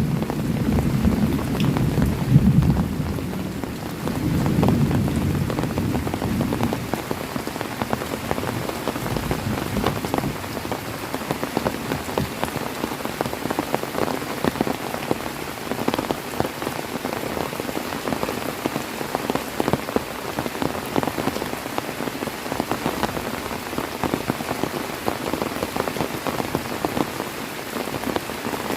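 Heavy rain falling steadily on a surface, a dense patter of drops. A low rumble of thunder dies away over the first several seconds.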